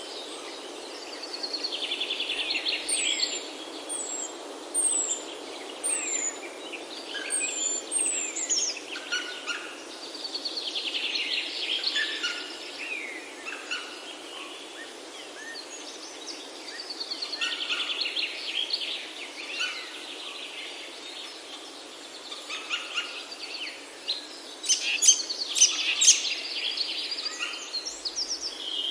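Songbirds singing: trilled song phrases come every several seconds, and short high falling chirps repeat in the first third, over a steady background hiss.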